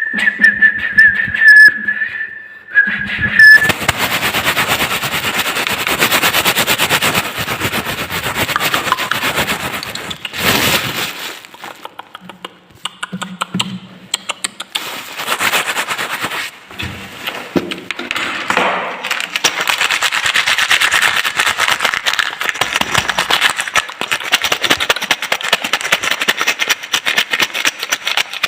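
Sounds made with a drinking glass: a steady whistle-like high tone for about three seconds, then a long run of rapid clattering clicks that pauses briefly a few times.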